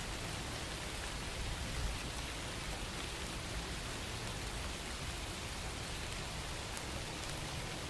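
Steady rain, a constant even hiss with faint scattered drop ticks.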